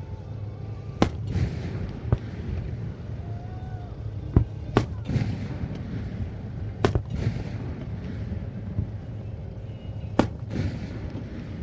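Fireworks shells bursting overhead: about seven sharp bangs at uneven gaps, a couple of them in quick pairs, over a steady low rumble.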